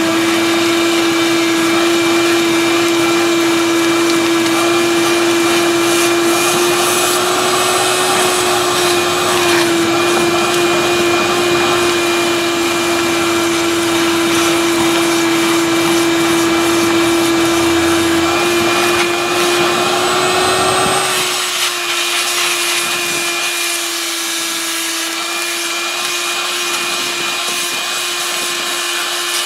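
16-gallon shop vac running steadily with a constant motor whine, its nozzle sucking up dirt from around buried sprinkler lines. About two-thirds of the way through, the rougher low rush under the whine drops away and the sound thins out.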